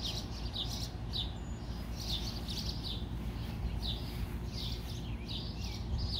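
Small birds chirping, short chirps that fall in pitch and repeat irregularly, over a steady low rumble.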